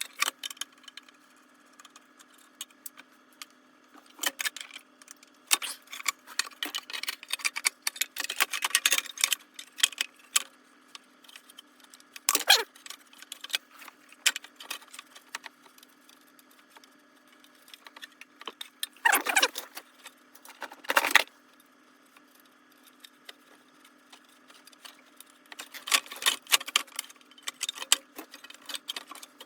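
Intermittent metallic clicks, clinks and rattles of hand tools and small-engine parts being handled, in clusters a few seconds apart, as the oil dipstick tube is worked loose. A faint steady hum runs underneath.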